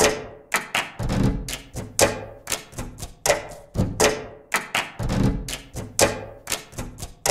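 Cup-game percussion: hands clapping and a cup tapped and knocked down on a table in a repeating rhythm of several sharp strikes a second, with duller thuds among them.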